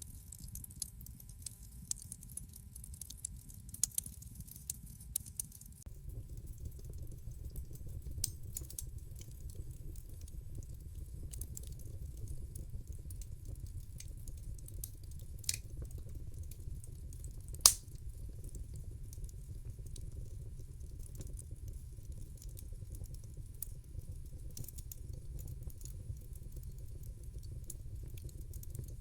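Wood fire in a fireplace crackling, with irregular small snaps and pops over a low rumble of burning. The rumble grows fuller about six seconds in, and one sharp, louder pop comes about two-thirds of the way through.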